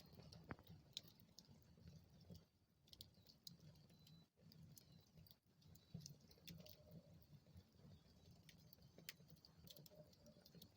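Wood fire in a fireplace crackling faintly: scattered small pops and snaps over a soft low rumble.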